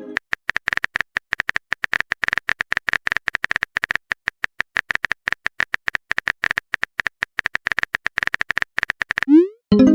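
Rapid keyboard typing clicks, several a second, as a chat typing sound effect. Near the end comes a short rising tone followed by a pitched chime, a message notification sound.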